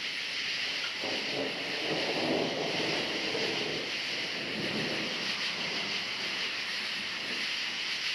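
A dense chorus of crickets trilling steadily, with a low rumble of distant thunder swelling about a second in and rolling on for a few seconds.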